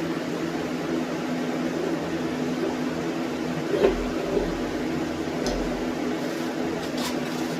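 Steady mechanical hum, like a fan running, with one sharp knock a little under four seconds in and a few lighter clicks later on.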